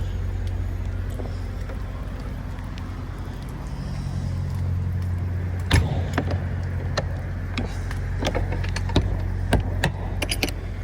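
Semi truck's diesel engine idling steadily, with a run of sharp clicks and knocks from about six seconds in, the loudest near the start of them.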